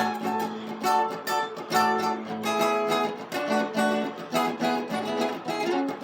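Guitar playing an instrumental jam: picked notes in quick succession, several a second.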